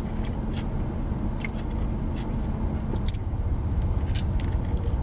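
Close-up chewing of a burger, with short wet mouth clicks, over a steady low rumble from a car. A faint steady hum underneath stops about three seconds in.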